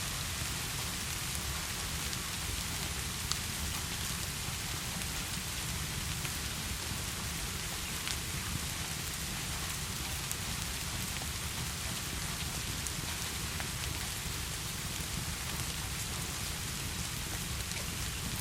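Steady heavy rain falling, an even wash of noise with a few faint sharp drop ticks scattered through it.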